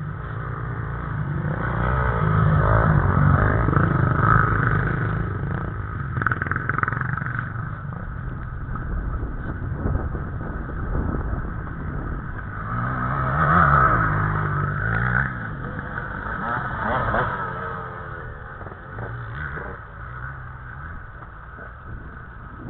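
Enduro dirt bikes riding past with engines revving up and down, loudest about three seconds in and again about fourteen seconds in, then fading away.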